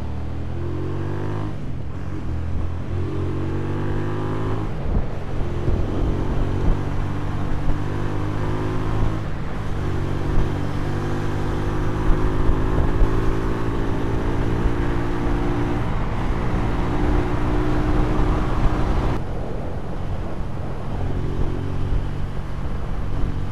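Hyosung 250cc V-twin motorcycle engine heard from the rider's seat, accelerating through the gears: its pitch rises and drops back at each of several upshifts over the first ten seconds or so, then holds steady at cruising speed with wind rush. The revs fall away once, about three-quarters of the way through, then carry on steadily.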